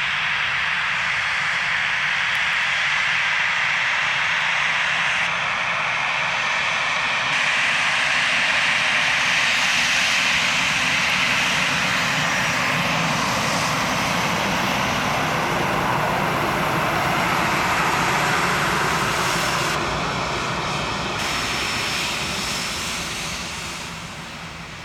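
Airbus A319-111 airliner's CFM56 turbofan jet engines running, a loud steady rush that fades away over the last few seconds.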